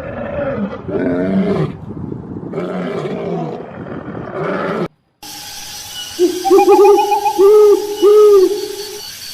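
Recorded wild animal calls, two clips back to back: first a harsh, roar-like call in several pulses for about five seconds, then after an abrupt cut, a series of clear tones that rise and fall in arches.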